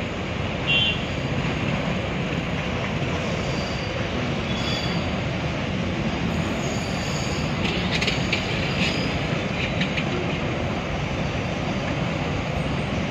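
Container freight train rolling steadily past a level crossing: continuous rumble of the wagons on the rails, with brief high wheel squeals now and then and a run of clacks about two-thirds of the way through.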